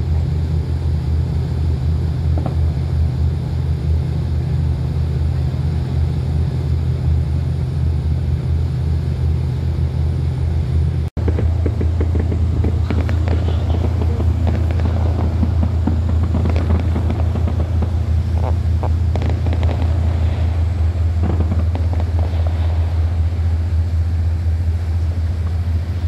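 A steady low rumble, broken by a brief dropout about eleven seconds in. After the dropout, faint irregular crackles and pops sit over the rumble, typical of distant fireworks.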